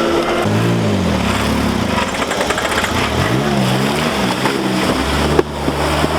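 Vehicle engine revving up and down repeatedly while pulling a stuck car out on a tow line, with a sharp knock a little after five seconds, after which the engine settles to a steadier, lower note.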